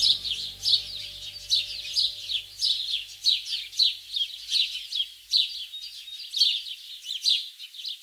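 A bird chirping over and over, short high falling notes at two or three a second, keeping a steady pace.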